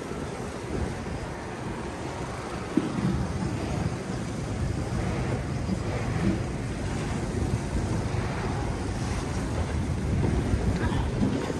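Storm wind buffeting the microphone: a steady low rumble under a rush of noise.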